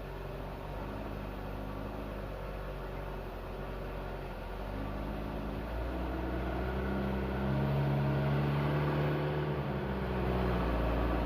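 Engine of an old truck loaded with sugarcane, running and working under load, its pitch stepping up a few times and getting louder toward the end.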